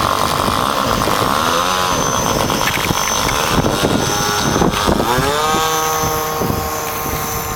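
O.S. 55AX two-stroke glow engine of an RC model plane running, its pitch dipping and climbing back twice as the throttle is worked, then holding steady at a lower pitch from about five and a half seconds in.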